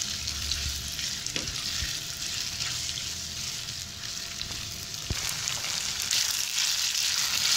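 Marinated chicken pieces sizzling in hot oil in a nonstick pan over medium heat, stirred with a silicone spatula, with a couple of brief knocks of the spatula against the pan. The sizzle grows louder about six seconds in.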